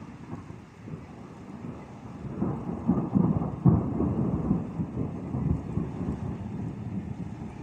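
Thunder rumbling from a thunderstorm: a low rolling rumble that swells about two seconds in, peaks a second or two later, then rolls on more softly.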